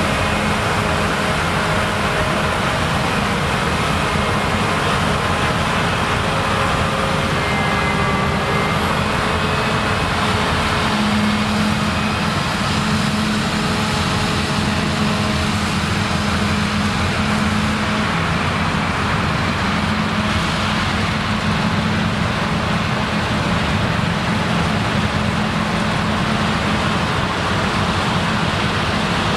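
Claas Lexion combine harvester running while harvesting rye: a steady drone of engine and threshing machinery, with an engine hum that grows a little stronger about midway.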